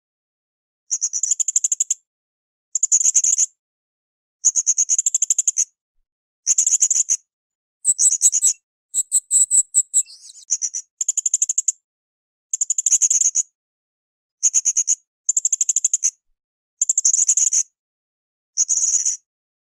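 Blue-crowned hanging parrot (srindit) calling in short, high-pitched buzzy trills of rapid pulses. The trills come about every two seconds, with one longer, more varied call about halfway through.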